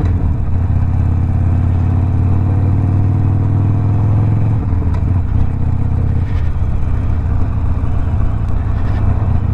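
Harley-Davidson Sportster Iron 1200's V-twin engine running under way through a Two Brothers 2-into-1 exhaust: a loud, low, steady exhaust note that changes and turns less even about halfway through.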